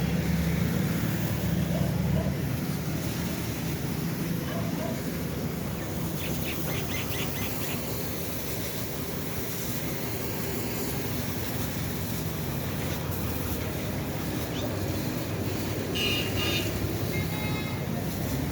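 Ford tractor's diesel engine running steadily, with a low rumble that is strongest in the first two seconds.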